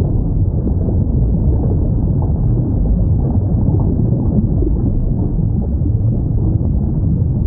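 Steady low underwater rumble, the background of an underwater whale recording, with no distinct whale call standing out.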